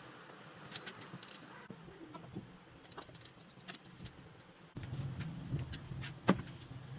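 Scattered light metallic clicks and clinks of small parts or tools being handled, with one sharper click a little before the end; a low hum comes in abruptly past the middle.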